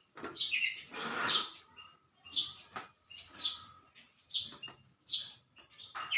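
Small bird chirping in short, high calls about once a second, with a brief rustle about a second in.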